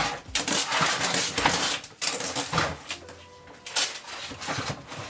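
Handling noise as items are packed into a storage box: rustling and clattering, busiest in the first two and a half seconds, then a few scattered light knocks.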